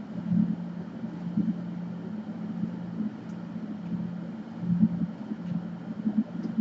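A steady low hum, like a bench fan or an electrical appliance, with a few soft irregular bumps of handling over it.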